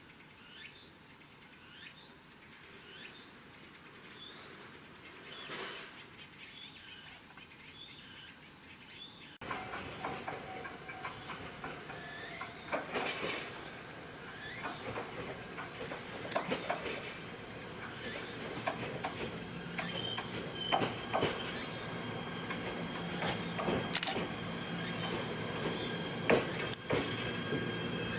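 Quiet outdoor ambience with faint insect ticking, then, after a cut about nine seconds in, an electric train heard louder: steady hiss and running noise with repeated metallic clanks and a few thin brake-like squeals.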